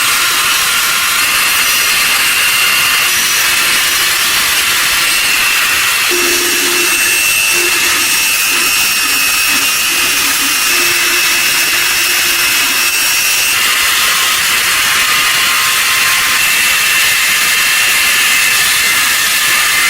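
A power tool working on the steel of antique scissors, giving a steady, high-pitched noise. A lower hum joins in from about six seconds in and drops away about two-thirds of the way through.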